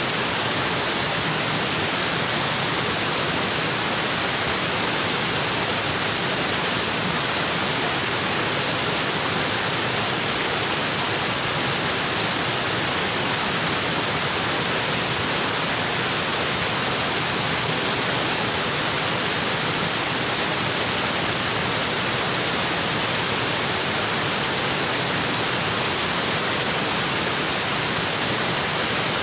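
Waterfall: water pouring onto rocks in a steady, unbroken rush.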